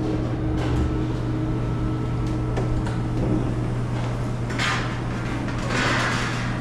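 Scattered clicks and two rustling, scraping bursts of hands handling parts of a display case, over a steady low hum.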